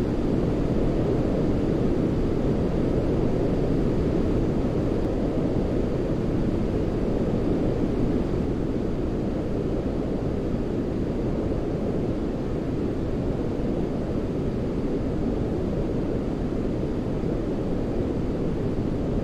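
Steady baby-sleep noise: an unbroken, deep rushing hiss weighted toward the low end, closer to brown noise than bright white noise, with no changes or events.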